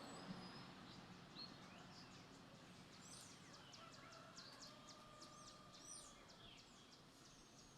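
Near silence with faint bird chirps in the background.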